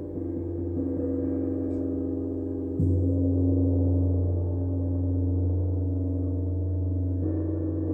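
A gong ringing in a sustained, layered drone of overlapping tones, struck afresh about three seconds in, when a deeper, louder tone swells up. The tones change again shortly before the end, as the gong is played during a sound-therapy session.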